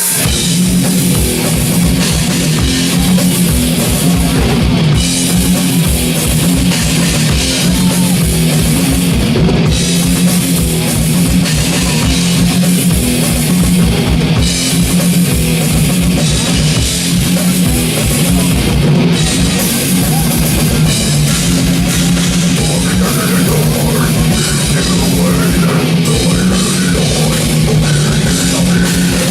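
Heavy metal band playing live: fast, dense drumming under distorted guitars, with cymbals.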